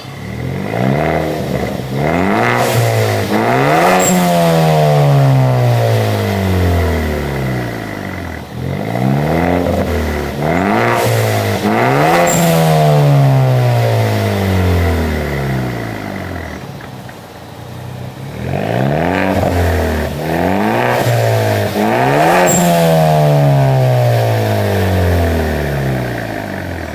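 Ford Focus ST mk3's 2.0 turbo four-cylinder revving through a Remus aftermarket exhaust with the OEM resonator. Three times the revs climb in a few quick blips, then fall slowly back toward idle.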